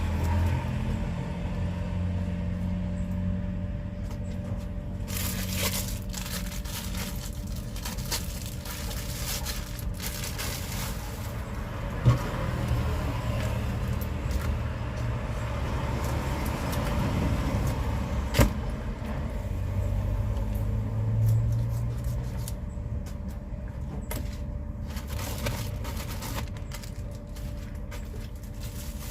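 Road traffic passing: vehicle engines rumbling, swelling and fading, with two sharp knocks about twelve and eighteen seconds in.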